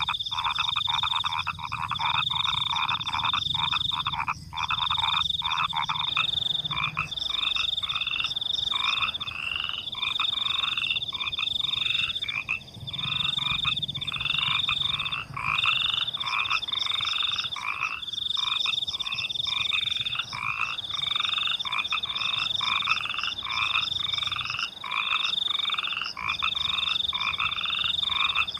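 A chorus of frogs calling at night, over a steady high trill of crickets. A fast rattling call fills the first six seconds, then the frog calls go on as spaced, repeating pulses.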